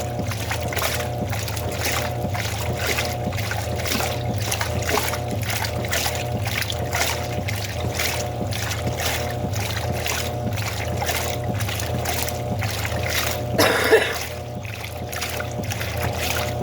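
Wanke Tradicional washing machine (2003, 5 kg) washing a load: steady motor hum under irregular water sloshing, with one louder splash about fourteen seconds in, after which it runs a little quieter.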